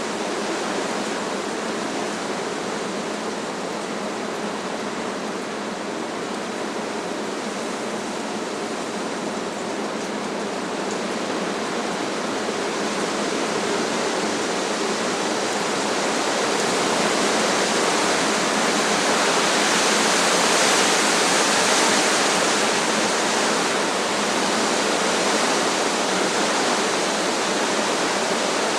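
Strong wind rushing through trees, a steady rushing hiss that swells into a stronger gust about two-thirds of the way through, then eases slightly.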